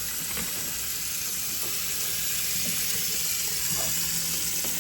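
Kitchen faucet running steadily, cold water pouring into the sink over ice packed in the garbage disposal.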